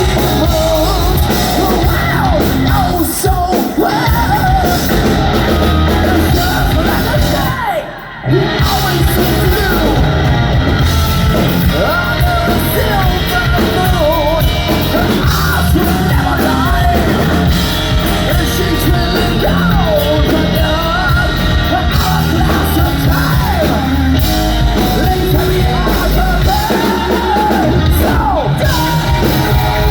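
Live hard rock band playing loud, with a lead vocal that is sung and yelled. The band stops sharply for a fraction of a second about eight seconds in, then comes crashing back in.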